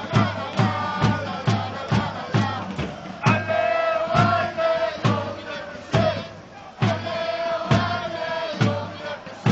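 Football supporters singing a chant together over a bass drum beaten steadily about twice a second.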